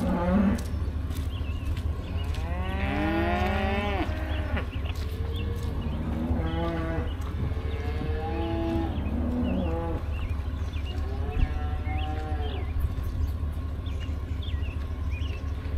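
Cattle mooing: about five long calls in a row, each rising and falling in pitch.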